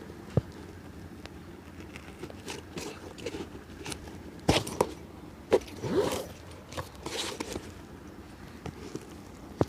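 Cobbler's hand-work on a shoe: scattered sharp knocks and taps with scraping and rustling in between, the sharpest knocks about half a second in and about four and a half and five and a half seconds in.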